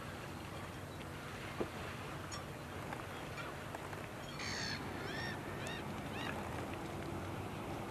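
A bird calling over a steady low outdoor background: a harsh call a little past the middle, then a run of about four short rising-and-falling calls over the next two seconds.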